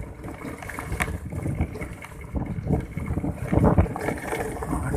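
Rumble and irregular jolts of a vehicle travelling over a badly broken road, with wind buffeting the microphone.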